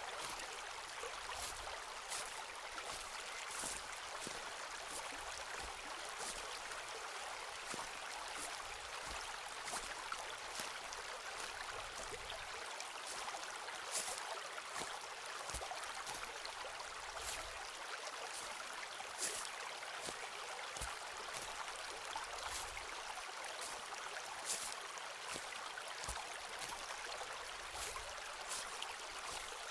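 Footsteps walking on a forest floor, with irregular crunching steps about one or two a second, over a steady rushing background.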